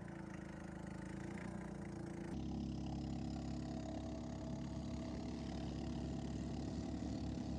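Small boat engine running steadily, its sound changing abruptly about two seconds in.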